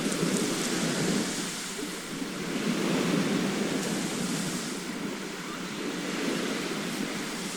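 Sea waves washing on a shore, a continuous rushing hiss that swells and eases every few seconds.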